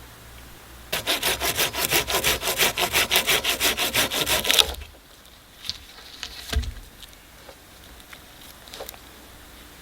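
A hand saw cutting through wood in quick, even strokes for nearly four seconds, then stopping; a few light knocks and a dull thump follow.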